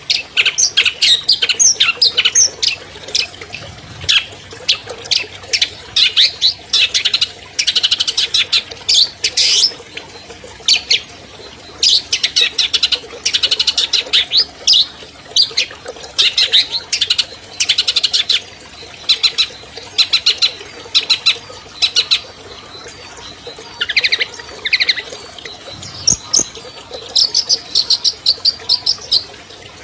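Long-tailed shrike (cendet) singing a fast, chattering song: rapid strings of sharp high notes in bursts of a second or two, separated by short pauses, with a few falling notes near the end.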